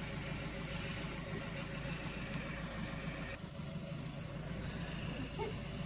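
A vehicle engine running steadily at low revs. About three seconds in, some of the higher noise drops away while the low hum goes on.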